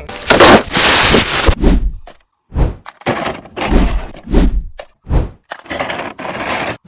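Plastic toy parts being handled and pushed together as a wheel and top cover are fitted onto a toy JCB backhoe loader: a run of clacks, knocks and thuds with rubbing in between, about one or two a second.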